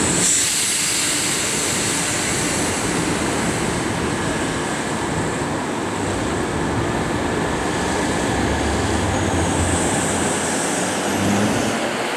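New Jersey Transit commuter coaches rolling past at close range on electrified track: a steady rumble and hiss of steel wheels on the rails.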